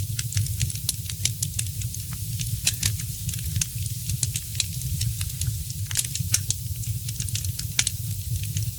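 Wood fire in a fireplace crackling, with frequent irregular sharp pops and snaps over a steady low rumble of burning; the pops come thickest about three and six seconds in.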